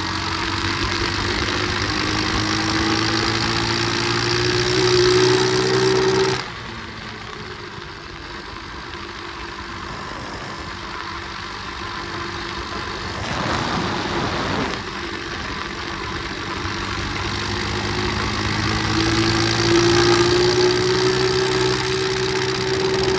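Pit bike engine pulling under throttle, its pitch climbing for about six seconds before it drops off suddenly as the throttle closes. It runs lower and steadier for a while, with a brief rush of noise in the middle, then the revs climb again near the end.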